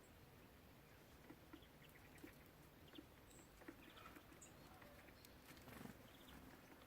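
Faint, scattered small taps and clicks from small songbirds at a bird feeder, with a few very short, high chirps.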